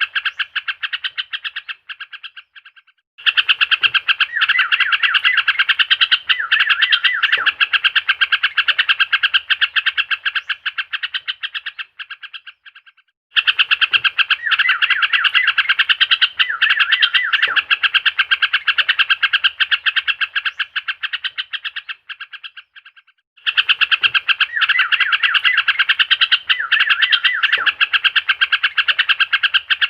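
Looped recording of trucuk (yellow-vented bulbul) song: dense, rapid chattering chirps that fade out and cut back in about every ten seconds, with a faint low thump now and then. It is a lure track, played to prompt a caged bulbul that has gone silent to start singing.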